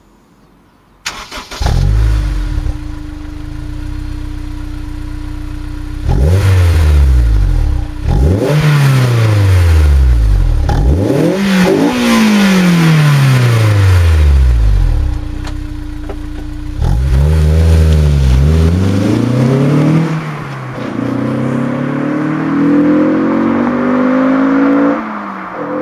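Honda S2000's four-cylinder engine, breathing through a Bastuck duplex exhaust with four tailpipes, starting about a second in and settling to a steady idle. It is then revved several times, the pitch sweeping up and falling back to idle, and near the end it climbs more slowly and steadily before dropping off.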